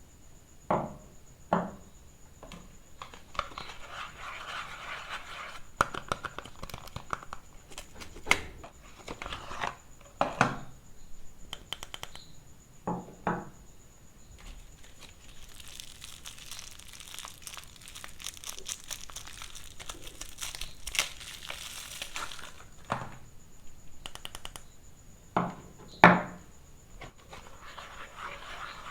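Soap wrappers crinkling and tearing as bars of soap are unwrapped, in long rustling stretches broken by a few sharp knocks, the loudest near the end.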